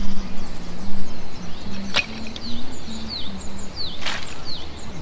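Bird chirping outdoors: short high calls that sweep downward, repeated about every half second through the second half, with two sharp cracks about two and four seconds in, over a low on-and-off hum.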